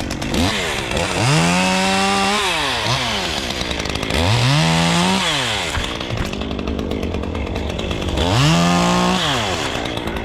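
Two-stroke chainsaw revved up to full throttle three times, each burst held for about a second and then dropped back to idle.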